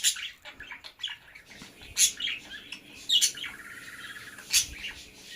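Pet parrots chirping and calling: four sharp, high calls spaced about a second or more apart, with a short buzzy trill after the third.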